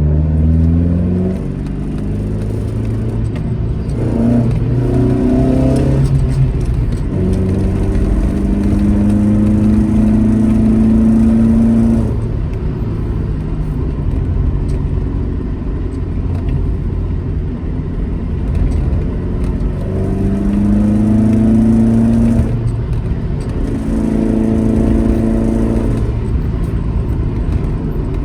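Classic Alfa Romeo GT Junior's twin-cam four-cylinder engine pulling through the gears: its pitch climbs in each gear and drops back at each shift, several times. It holds a steady pull to about twelve seconds in, then eases off and runs lower and quieter before accelerating again twice near the end.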